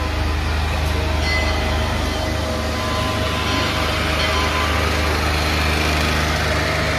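Steady low machine hum of a standing passenger train, its onboard equipment running, with a few steady whining tones above the drone.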